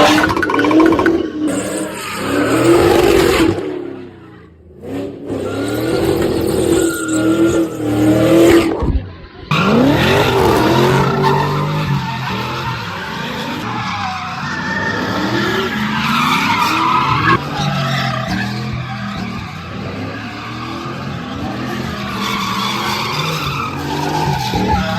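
Cars drifting, their engines revving up and down and their tyres squealing, with abrupt breaks about 1.5, 4.5 and 9.5 seconds in where one clip jumps to the next.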